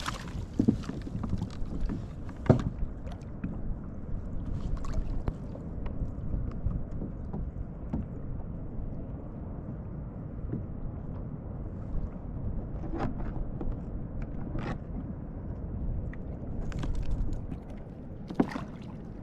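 Water lapping and sloshing against a fishing kayak's hull, with a steady low rumble of wind on the microphone and a few sharp knocks and clicks from gear against the kayak.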